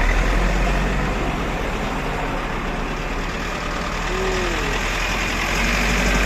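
Truck engine running steadily amid road traffic noise, with a constant low hum.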